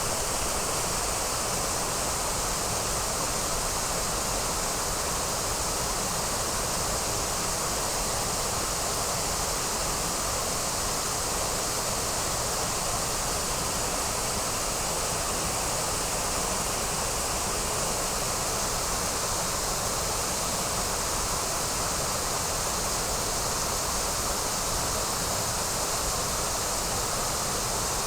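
Waterfall rushing: a steady, even roar of falling water with no change in strength.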